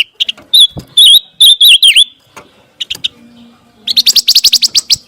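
Recorded song of a pancawarna bird: a series of clear, high whistled notes that dip and rise again, followed about four seconds in by a fast trill of short rising notes, around ten a second.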